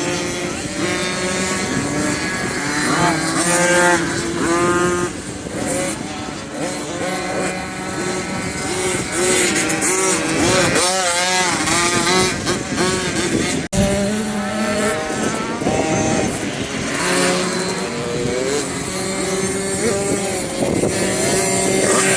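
Several motocross bikes riding the track, their engines revving up and down with overlapping rising and falling notes.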